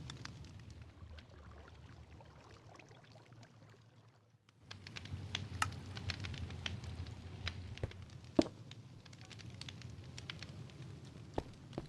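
Wood campfire crackling, with irregular snaps and pops over a low rumble and one sharp pop about eight seconds in. The sound drops away briefly around four seconds in.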